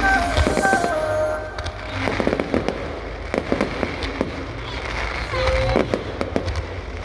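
Fireworks popping and crackling, with many sharp bangs from about two seconds in, over background music.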